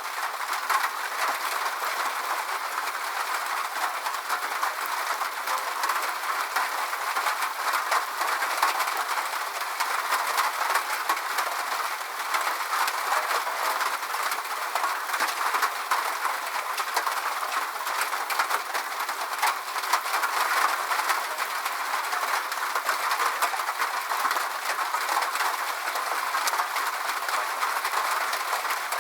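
Steady rain: an even hiss full of small drop ticks, without any low rumble.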